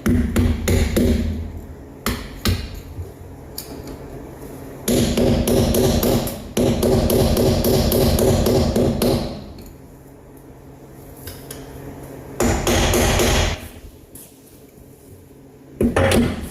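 Hammer strikes on steel suspension parts, a rapid series of sharp knocks in the first few seconds and again near the end. In between, a power tool runs steadily for about four seconds, then again briefly for about a second.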